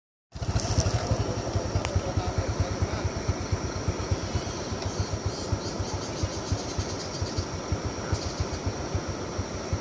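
Small motorcycle engine idling with a quick, even putter.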